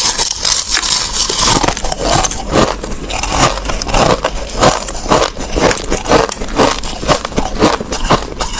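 Crushed ice being chewed close to the microphone: rapid, uneven crunching and cracking.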